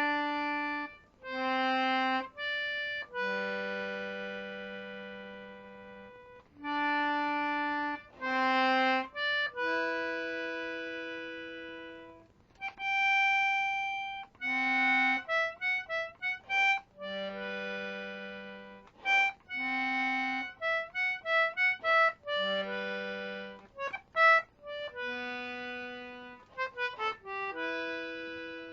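A 19th-century George Jones G/D Anglo concertina playing a solo instrumental introduction: held chords and melody notes, with quicker runs of short notes in the second half.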